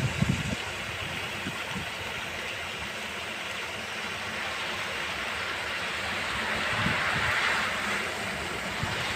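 Steady rain noise, an even hiss, with a few low thumps near the start and a swelling rush of hiss around seven seconds in.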